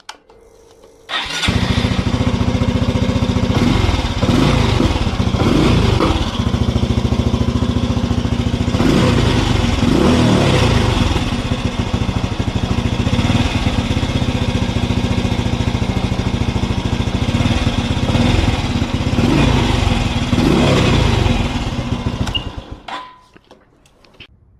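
Honda CT125 Hunter Cub's single-cylinder four-stroke engine started about a second in, running with several quick throttle blips, then switched off near the end. The engine breathes through a newly fitted high-flow 'power' air filter element.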